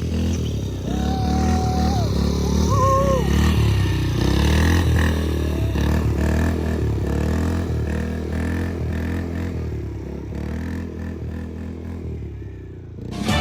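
Yamaha Raptor 90 mini quad's small single-cylinder engine running continuously with a low, rhythmic note.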